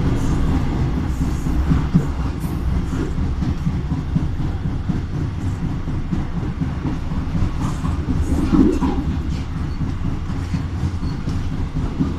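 Passenger train running along the track, heard from aboard: a steady rumble of wheels on the rails with occasional clicks over rail joints.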